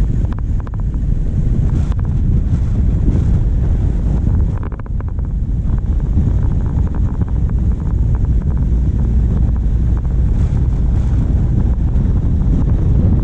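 Wind buffeting the microphone of a bonnet-mounted camera over the steady low rumble of a diesel vehicle driving. Scattered clusters of light clicks and rattles come through at times.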